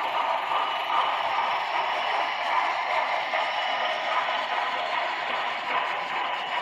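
HO scale model trains running on the layout's track: a steady mechanical whirr and rolling noise of motors and wheels on rail.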